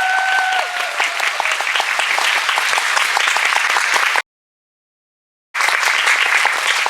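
Concert audience applauding, a dense patter of many hands clapping, with a steady tone dying away in the first moment. About four seconds in the sound cuts to dead silence for over a second, then the applause resumes.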